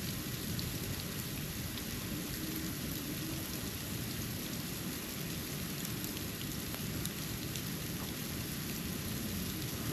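Falling snow pattering steadily, an even hiss with scattered faint ticks of flakes landing, over a low rumble.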